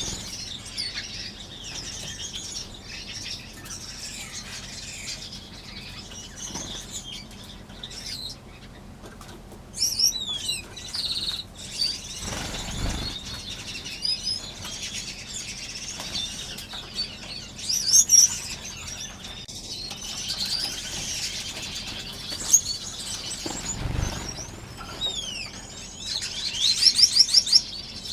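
A crowd of small aviary finches chirping and calling over one another, with wings fluttering. A fast run of repeated high notes comes near the end.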